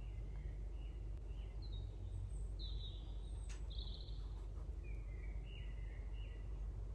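Birds chirping in short phrases of quick falling notes over a steady low background rumble, with a single sharp click about halfway through.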